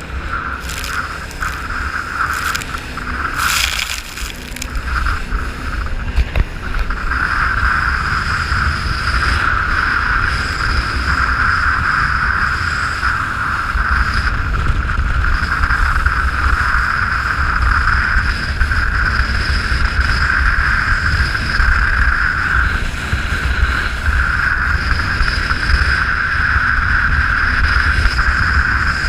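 Jet boat under way on a river: a steady high engine and pump whine over a low wind rumble on the microphone, getting louder about seven seconds in. A few sharp knocks or splashes sound in the first few seconds.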